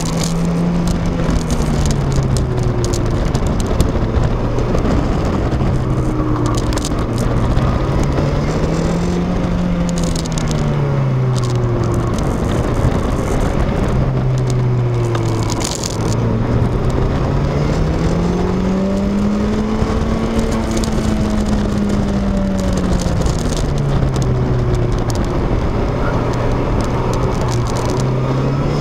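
Car engine heard from inside the cabin on a lap of a racing circuit, its pitch repeatedly climbing under acceleration and falling away into the corners, with a brief drop about sixteen seconds in, over steady wind and road noise.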